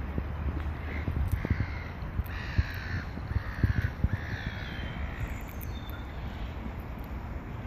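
A bird giving a series of about six harsh calls between about one and five seconds in, over a low rumble of wind on the microphone.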